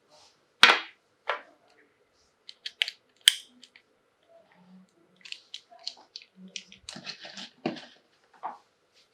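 Toys and their plastic packaging being handled close up: sharp clicks and taps, the loudest two about a second and three seconds in, then a busier stretch of crinkling and small taps in the second half.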